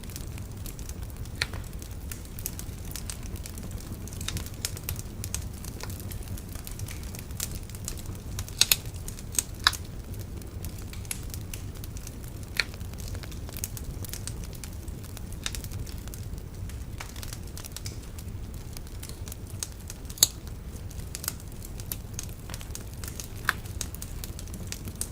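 Wood bonfire burning with a steady low rumble and irregular sharp crackles and pops, a few louder snaps among them.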